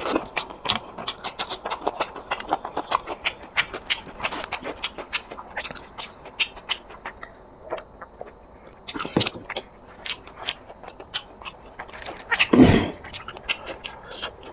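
Close-miked eating of chicken curry and rice: wet chewing and lip-smacking clicks in quick succession. The clicks thin out for a few seconds midway, and there is one louder, deeper sound near the end.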